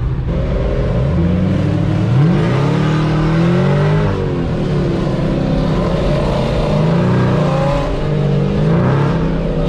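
Several car engines revving over one another, their notes rising and falling without a break.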